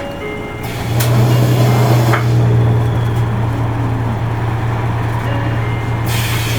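Isuzu Erga Mio city bus's four-cylinder diesel engine heard from inside the cabin under way. Its low drone grows louder about a second in, with a click at that point, and then holds steady.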